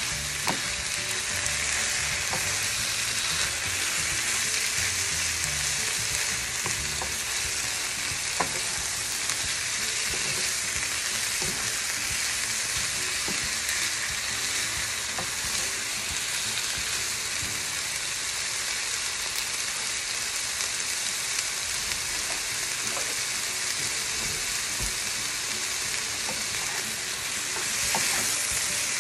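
Diced chicken and chopped red onion sizzling in a nonstick frying pan while a wooden spoon stirs them, with occasional light knocks of the spoon against the pan. The sizzle swells briefly near the end.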